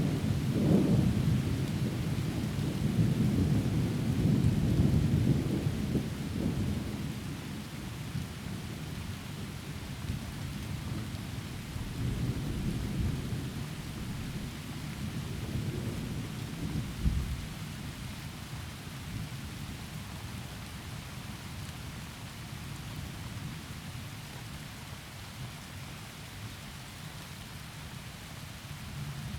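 Heavy rain falling steadily with rolling thunder: a long low rumble over the first several seconds, a second, weaker rumble about twelve to seventeen seconds in, then rain alone.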